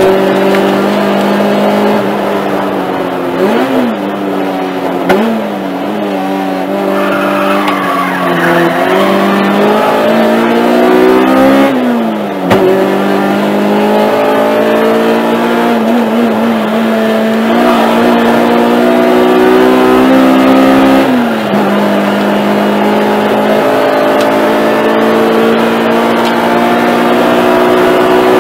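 Honda race car's four-cylinder engine heard from inside the cabin at hard throttle on track. Its pitch climbs through each gear and drops sharply at the shifts and braking points, about five times, then climbs steadily near the end on the straight.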